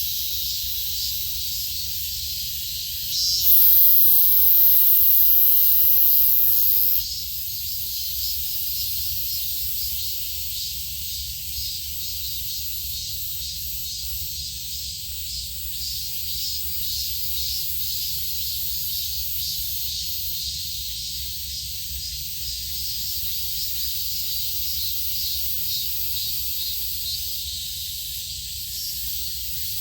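Steady high-pitched insect chorus with a fine pulsing. A louder, very high buzz comes in about three and a half seconds in and stops suddenly about three and a half seconds later, with a faint low rumble underneath throughout.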